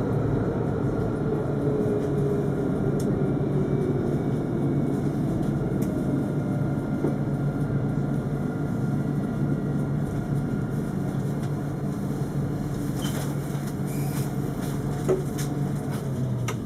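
Alstom Citadis 402 tram running, a steady rumble with a low electric hum and a whine from the traction equipment that falls in pitch over the first few seconds as the tram slows. A single click near the end.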